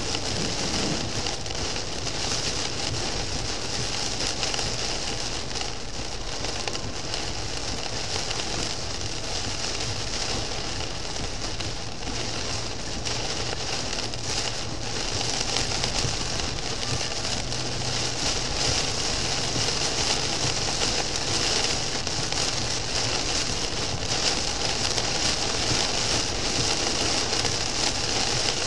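Torrential rain pelting the car's windscreen and roof at highway speed, heard from inside the car as a dense, steady hiss. It gets a little louder about halfway through.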